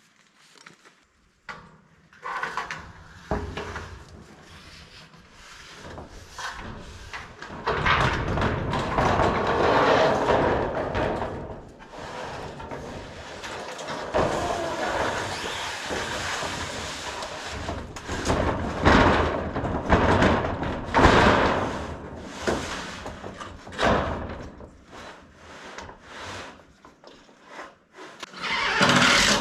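Carpentry work on a wooden frame: boards knocking and thudding, with longer stretches of rasping tool noise and a few sharp louder hits.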